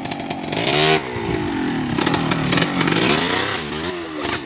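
Chainsaw engine running and revving up and easing back several times, with its pitch rising and falling, loudest about a second in.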